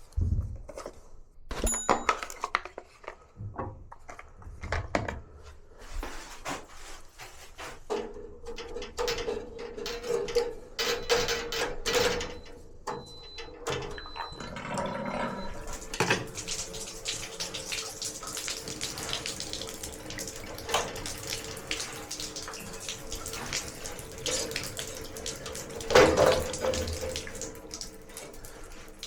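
Water running from a tap fed by a Bosch gas water heater, with a steady hum from the heater. This hum is the fault being repaired. Clicks and knocks of handling come early, and there is one louder knock near the end.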